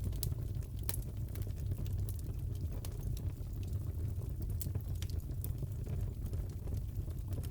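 Fireplace crackling: a steady low rumble of burning with irregular sharp pops and snaps of the wood.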